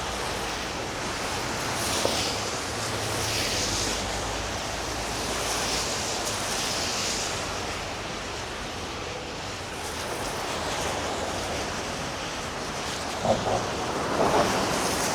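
Steady rush of wind over the microphone, with the hiss of a moving electric scooter's street-tread tires rolling through snow. The noise swells and eases in waves.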